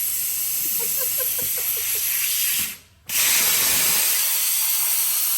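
Steady hissing noise with faint voices under it, broken by a sudden drop to silence for about half a second near the middle.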